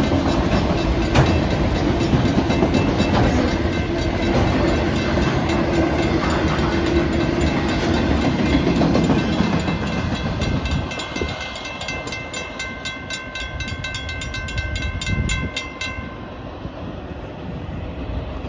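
Norfolk Southern manifest freight train rolling slowly past, its railcars clicking over the rail joints; the train noise eases off after about nine seconds. A rapid, high, evenly repeating ringing then sounds and stops suddenly about two seconds before the end.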